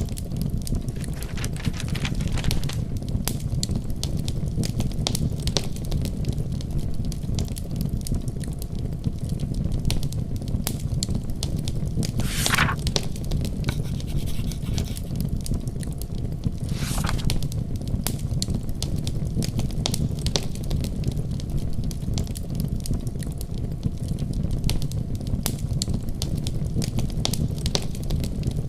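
Wood fire crackling in a fireplace: many small snaps and pops over a steady low rumble, with two louder hissing snaps midway.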